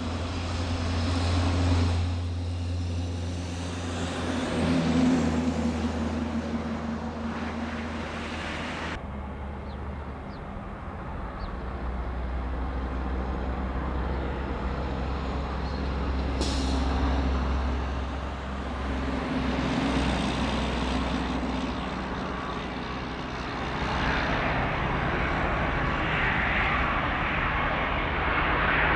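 Jet aircraft engines running at low power: a steady low drone with several held tones that shift in pitch a few times, and a hiss that builds over the last few seconds.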